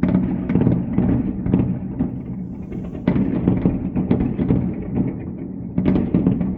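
A run of loud blasts, with fresh ones hitting three times. Each is followed by dense crackling and low rumbling that die away over a couple of seconds.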